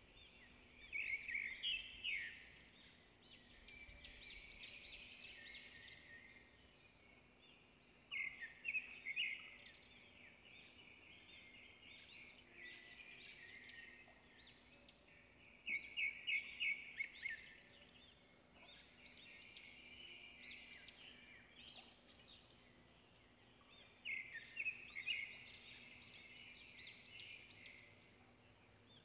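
Small birds chirping in quick clustered bursts that come back every several seconds, with softer chatter in between. A faint steady hum lies underneath.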